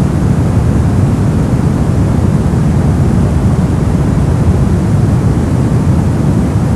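Brown noise: a steady, deep rushing hiss, strongest in the low end and dull in the highs, with no change or events.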